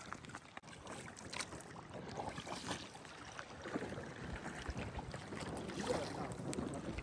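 Canoe paddle strokes splashing and dripping in the water, irregular and uneven, over a noisy background of wind and water.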